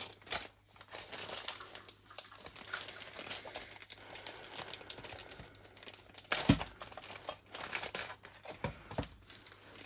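Packaging crinkling and rustling as a diamond painting kit box is handled and opened, with a few knocks of the box near the end.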